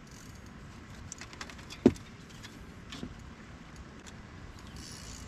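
Scattered light clicks and knocks over a steady low background, with one sharp, louder knock about two seconds in: gear and footsteps moving in a fishing boat while a fish is being fought.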